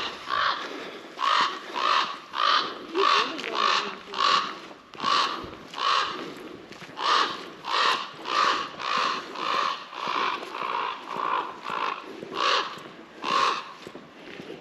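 Footsteps walking at a steady pace, nearly two steps a second, each a short crunch.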